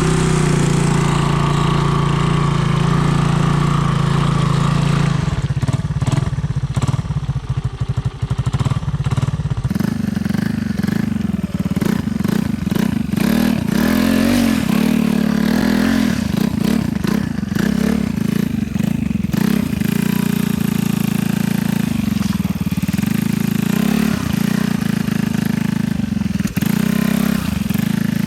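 Honda ATC 200M three-wheeler's single-cylinder four-stroke engine running while riding. The engine holds a steady note, eases off about five seconds in, then picks up again from about ten seconds, its pitch rising and falling with the throttle.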